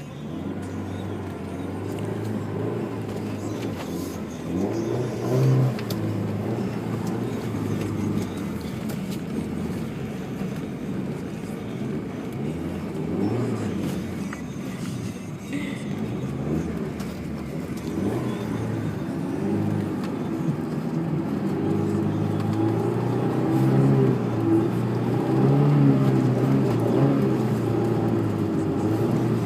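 Honda S2000's four-cylinder engine running through a modified exhaust, its revs rising and falling as the car is driven.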